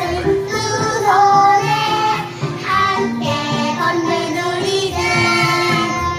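A group of young children singing a children's song together over musical accompaniment.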